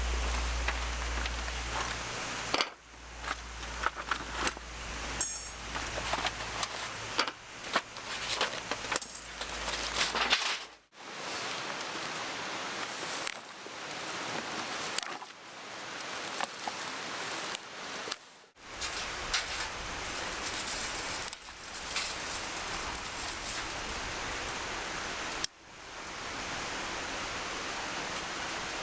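Steady rush of a mountain stream, with scattered rustles and light clinks of camp gear being handled. The sound breaks off abruptly several times.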